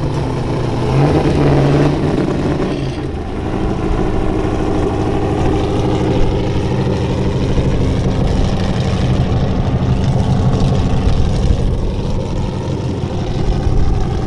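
Modified Holden Commodore ute's engine running at fairly steady revs, with a brief change in revs about a second in.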